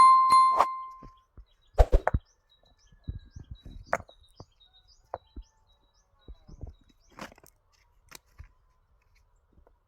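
A single metallic clang that rings and fades over about a second, then scattered knocks and clatter, with faint bird chirps between them.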